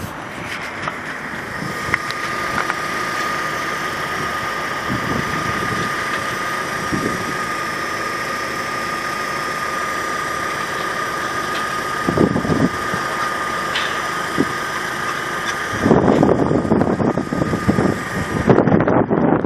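Opel Zafira B's 1.6-litre, 105 hp petrol four-cylinder idling steadily, with a constant high whine over the engine note. Wind buffets the microphone in gusts near the end.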